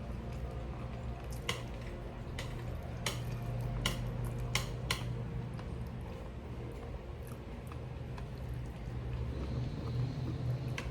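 Eating stew: wet chewing and squishing, with about six light clicks of cutlery against a dish in the first half.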